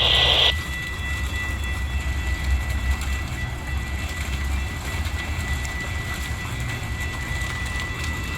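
Metra commuter train running by with a low, uneven rumble. A loud hiss cuts off sharply about half a second in.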